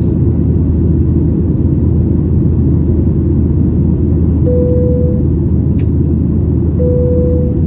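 Steady low rumble of a Boeing 737-900ER's engines and airflow heard inside the cabin, at about the same loudness throughout. Two short steady tones, each under a second, sound about four and a half seconds in and again near the end, with a brief click between them.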